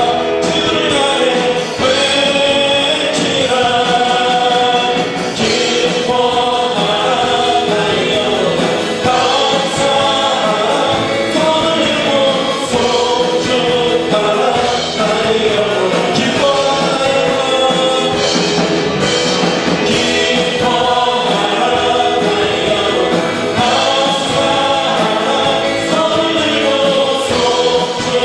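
Church worship singing: a group of voices singing a hymn over instrumental accompaniment.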